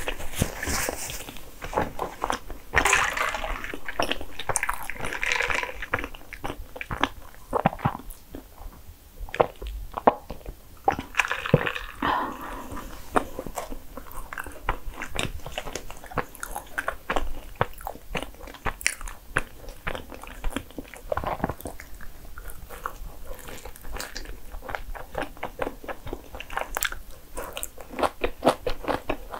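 Close-miked eating: chewing soft bagel bread and cream with wet mouth clicks, with a papery rustle a few seconds in. Near the end comes a bite into a fruit-and-cream bagel sandwich and more chewing.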